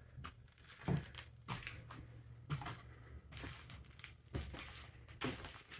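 Faint, scattered knocks and crinkling noises in a small room, about six over a few seconds, over a low hum.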